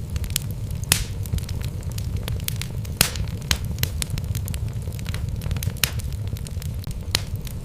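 Wood logs burning in a fireplace: irregular sharp crackles and pops over a steady low rumble of the flames, with the loudest pops about one and three seconds in.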